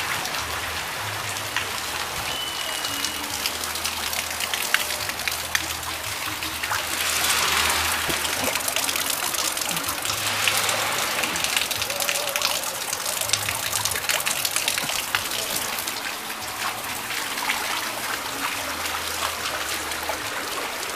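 Steady rain, with many close raindrop ticks over an even wash of falling and running water on a flooded street.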